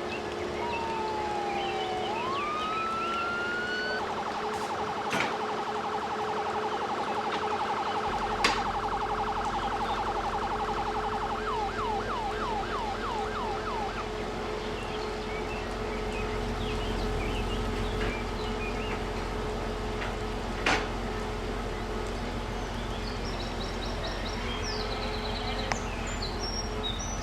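Electronic emergency-vehicle siren: a short wail that dips and then rises in pitch, then a rapid yelp for several seconds that slows to a few sweeps a second and stops about fourteen seconds in. A steady hum and a low rumble run underneath, with a few sharp clicks.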